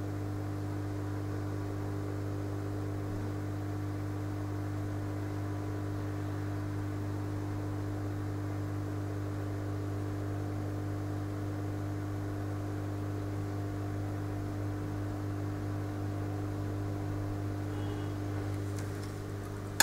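Steady low electrical hum with a fainter higher tone over it, unchanging throughout, in the pattern of mains hum from bench equipment.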